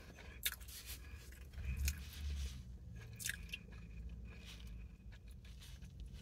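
A person chewing food close to the microphone: quiet, scattered mouth clicks and smacks.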